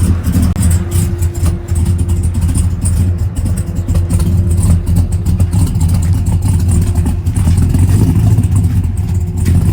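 Chevrolet LS3 6.2-litre V8 running steadily near idle, loud and deep, with a faint steady whine over it. The engine's ECU tune is not yet finished.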